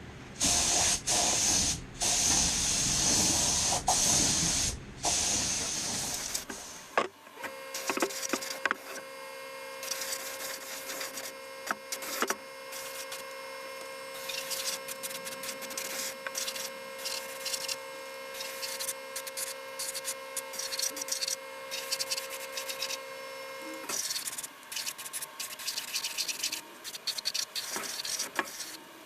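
Paint being sprayed in several bursts of hiss that stop about seven seconds in. After that come quieter scratching and rubbing sounds over a faint steady hum, which cuts off near the end.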